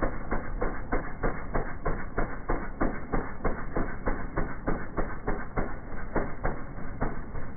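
Honda HS720AM single-stage snowblower with its four-stroke engine running while throwing deep snow, heard as a rapid, slightly uneven clatter of knocks, about four or five a second.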